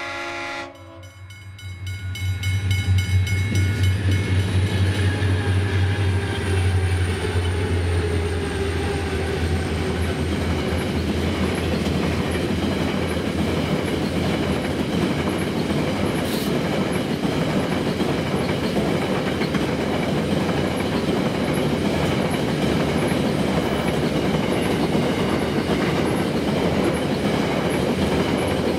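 A diesel freight train's horn cuts off in the first second. Then its G and C class diesel locomotives pass with a deep engine drone whose tones slide down in pitch as they go by. The engines give way to the steady rumble and clickety-clack of loaded grain hopper wagons rolling past.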